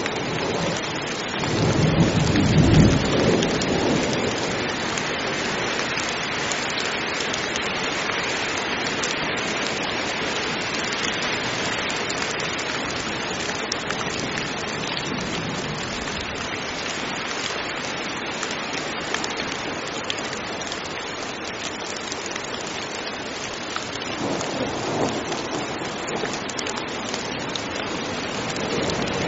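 Heavy rain pouring steadily, with thunder rumbling about two seconds in and rumbling again near the end.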